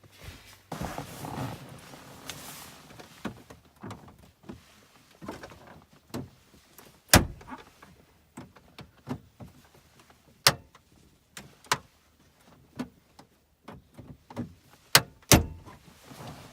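Screwdriver scraping and prying at the plastic dash trim around a 2010 Chevy Cobalt's radio, with a series of sharp clicks and snaps as the trim's retaining clips pop loose. The loudest snaps come about seven seconds in, at about ten and a half seconds, and as a close pair near the end.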